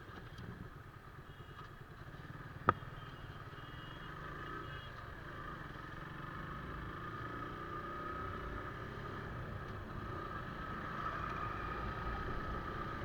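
Motorcycle running along a highway with road and wind rumble, slowly growing louder. A single sharp click about two and a half seconds in.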